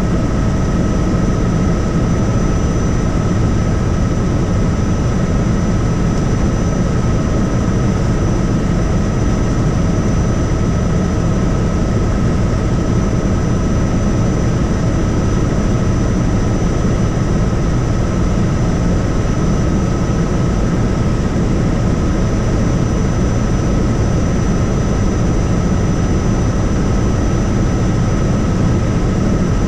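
Helicopter in flight: steady engine and rotor noise with a thin, steady high whine over it.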